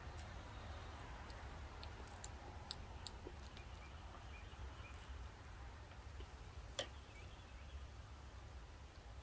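Faint scattered wet clicks and smacks of a person chewing salted lemon slices, over a low steady hum. A sharper click comes near the end.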